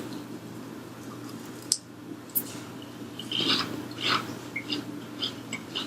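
Close-up chewing of crispy fried chicken wings: a click, then a few short crunchy bites in the second half, over a low steady hum.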